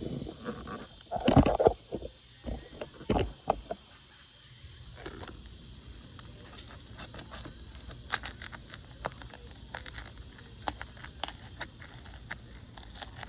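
A metal tool prying and scraping under old 3-tab asphalt shingles that are stuck fast together. A few louder scrapes come in the first three seconds, then small clicks and ticks. Crickets or other insects drone steadily in the background.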